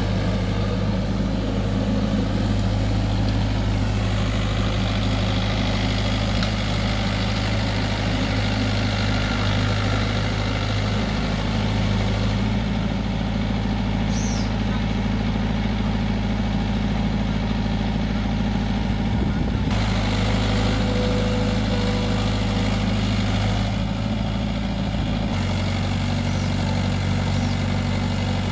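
Mahindra tractor's diesel engine running steadily at a low idle, its note shifting slightly a few times.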